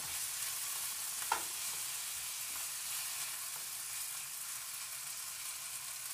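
Chicken pieces sizzling as they sear in a frying pan, with a utensil stirring and turning them. There is a single sharp tap about a second in.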